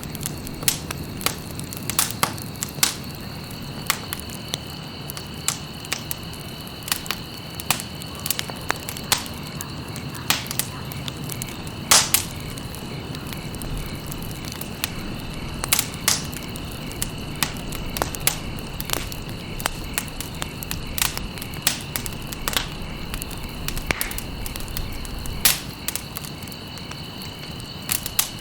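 Campfire of burning stalks, crackling with frequent irregular sharp pops over a low steady rush of flame; the loudest pop comes about twelve seconds in. A steady high-pitched tone runs underneath.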